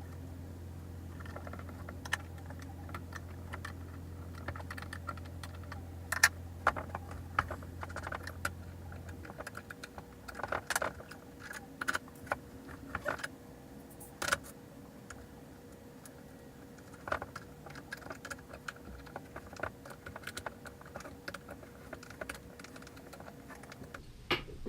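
Scattered light clicks and taps of skateboard wheels, bearings and a tool being handled during wheel installation, densest in the middle. A steady low hum runs under it and stops about nine seconds in.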